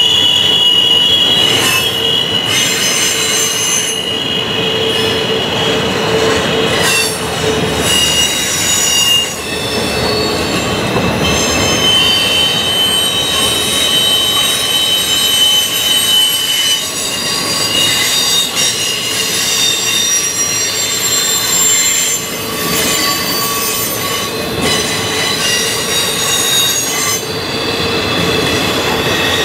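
Norfolk Southern intermodal freight cars rolling by on the tight Horseshoe Curve, wheel flanges squealing against the rail in several high tones that shift and come and go. Under the squeal runs a steady rumble of wheels on track.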